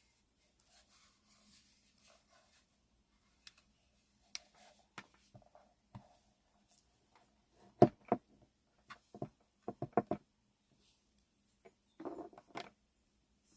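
Scattered clicks, taps and knocks of small hard objects being handled, with a cluster of louder thumps about eight to ten seconds in and another brief flurry near the end; no motor is running.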